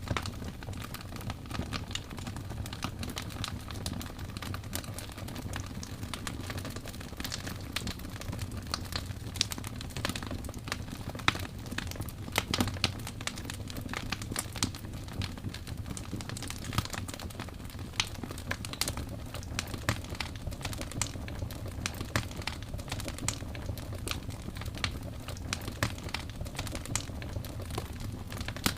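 Wood fire crackling in a fireplace: a dense, irregular run of sharp pops and snaps over a steady low rumble, with a few louder pops near the middle.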